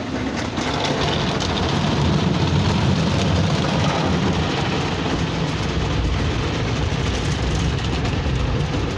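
Ryko Softgloss XS 2 automatic car wash working over the car: a steady rush of water spray and brushes with a low machine rumble, louder from about a second in.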